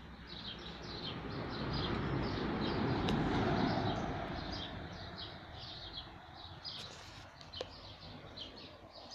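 A bird chirping over and over, a few short calls a second. Under it is a low rushing noise that swells and then fades away over the first half.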